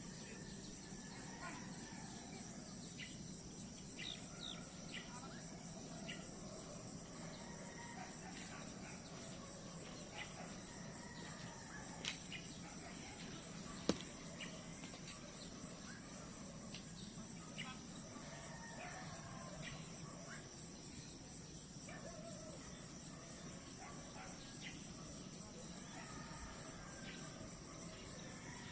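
A steady high-pitched chorus of crickets, with scattered short chirps and calls over it and two sharp clicks near the middle.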